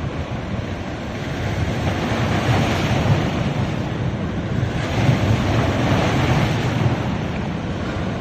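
Sea waves breaking and washing up a beach, a steady surf wash that swells twice, about two and a half seconds in and again about five seconds in.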